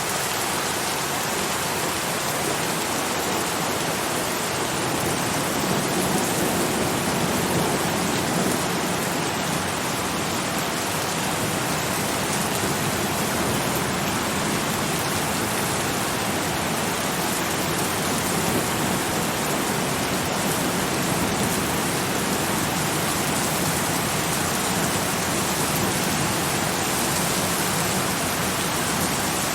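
Steady, continuous rain falling, a dense even hiss without distinct drops or thunder.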